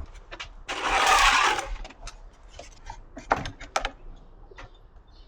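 A hiss lasting about a second, a little under a second in, then scattered light clicks and taps of metal parts being handled while a scooter's front wheel is refitted.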